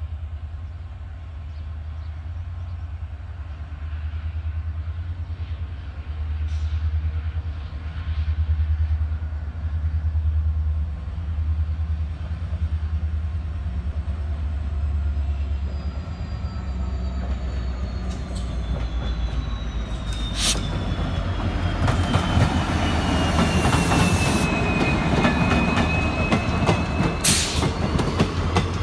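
A WDP4D diesel locomotive's engine rumbling deeply as a train draws near, then the train passing, with wheels clattering over the rail joints and a high whine that falls in pitch and stops shortly before the end.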